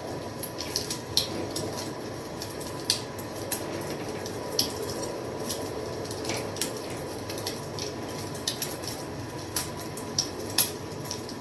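Wood fire crackling: about a dozen irregular sharp pops and snaps over a steady low rush.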